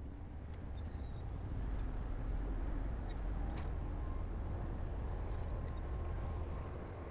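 Heavy construction machinery's diesel engine running steadily, a low rumble that swells slightly about one and a half seconds in.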